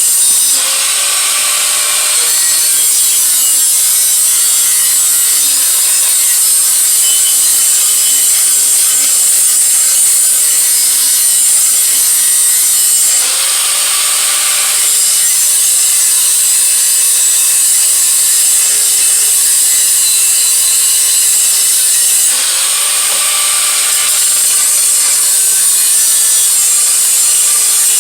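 A power grinder working metal with a steady, loud, high hiss. Its tone changes briefly three times, near the start, about halfway, and near three-quarters through, as the load on the tool shifts.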